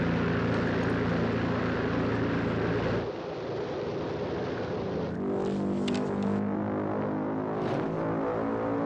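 Small propeller plane's engine droning steadily, heard from inside the cabin. The sound shifts abruptly about three seconds in, and a few sharp clicks come past the middle.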